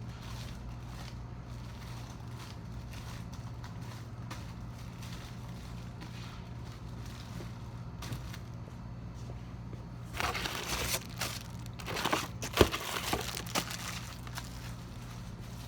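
Crinkling and rustling handling noise in a cluster from about ten to fourteen seconds in, with one sharp click in the middle, over a steady low hum.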